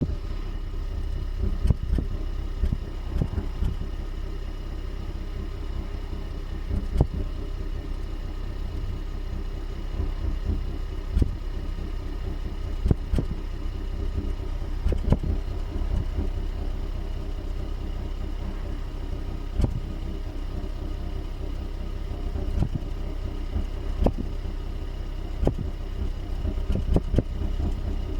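Hyundai Ioniq Hybrid's 1.6-litre four-cylinder petrol engine running with a steady low drone, broken by irregular sharp thumps one to several seconds apart. The thumps are the misfire, with the engine shaking as it stumbles.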